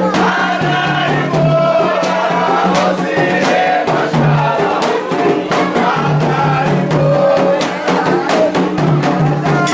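Voices singing a Candomblé chant together over steady hand-drum and percussion strokes.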